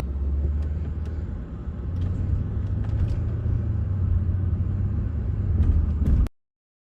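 Low, steady rumble of a car driving, heard from inside the cabin, with a few faint ticks; it cuts off abruptly about six seconds in.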